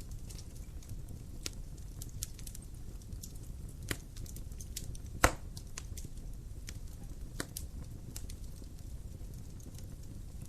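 Wood fire burning in a fireplace: a steady low rumble of flames with scattered crackles and pops. The sharpest pop comes about five seconds in.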